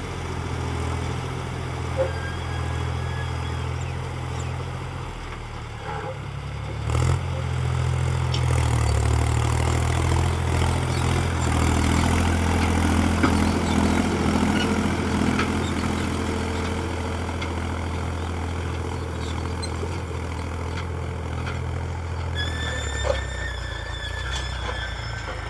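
Tractor engine running steadily. Its pitch and loudness step up about seven seconds in, as when revved or put under load, and it eases back near the end, where a brief high squeal sounds.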